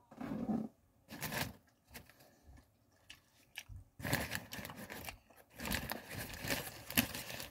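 Chewing a crispy chicken wrap, with a few crunchy bites in the first second and a half, then the paper wrapper rustling and crinkling from about four seconds in.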